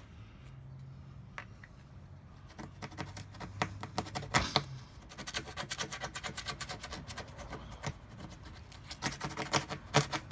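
Plastic scraper rubbing and scraping WD-40-softened adhesive off a motorcycle fairing in quick repeated strokes, starting about two and a half seconds in.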